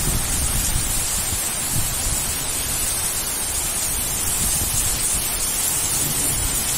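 Heavy rain pouring steadily, a dense even hiss, with a low rumble of wind buffeting the microphone.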